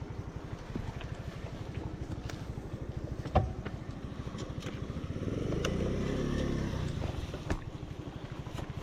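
Small motorcycle engine running at low revs with an even pulse, swelling up in revs and back down about two thirds of the way through. A sharp knock a little past a third of the way in is the loudest sound.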